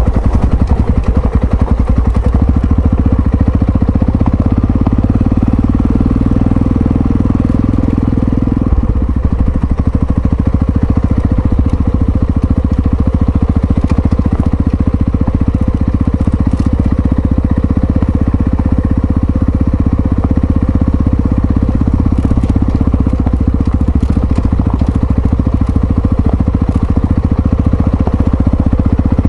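Yamaha Ténéré XT660Z's single-cylinder four-stroke engine running under way, a loud, steady thump of firing pulses whose note changes about nine seconds in.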